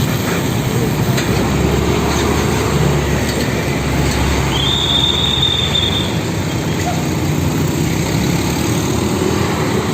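Heavy road traffic, trucks and engines making a steady loud rumble. About halfway through, a single high, steady squeal lasts about a second and a half.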